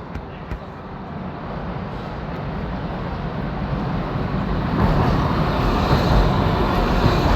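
Street traffic noise as a vehicle approaches, the rushing sound growing steadily louder.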